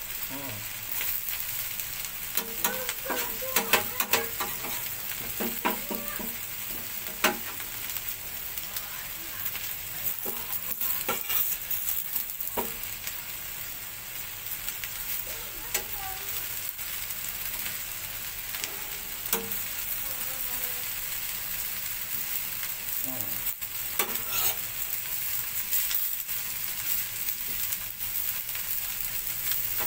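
Pounded chilli, garlic, anchovy and belacan paste sizzling in oil on a hot grill plate. A metal spoon stirs it, with frequent short scrapes and taps against the plate.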